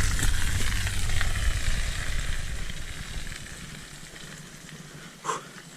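A vehicle's engine and tyres rumbling on the trail, fading away over about three seconds, under a steady hiss of rain. A short faint call sounds near the end.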